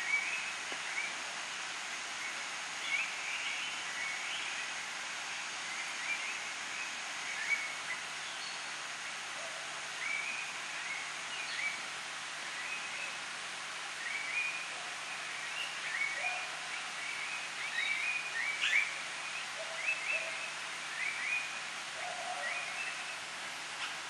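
Wild birds calling: many short chirping notes in quick clusters every second or so, over a steady hiss.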